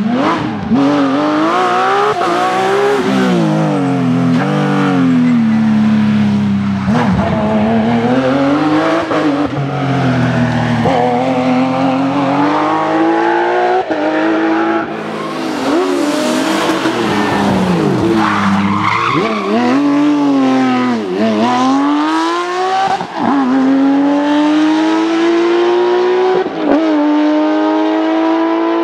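Porsche rally car's flat-six engine driven hard, its pitch climbing through the revs and dropping sharply at each upshift or sagging when lifting off, with a stretch of tyre squeal about halfway through.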